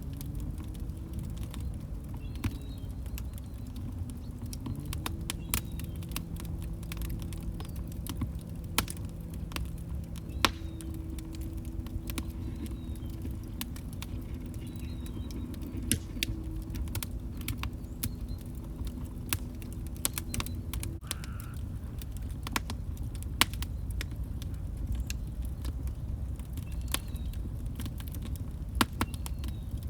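Log fire crackling, with frequent sharp pops and snaps over a steady low rumble of the flames. A faint low wavering hum runs underneath and stops about two-thirds of the way through.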